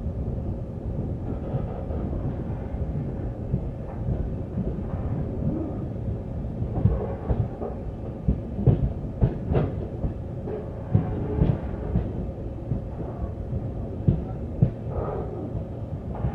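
Train on the track: a steady low rumble with irregular clanks and knocks of wheels and cars, and a thin steady hum underneath.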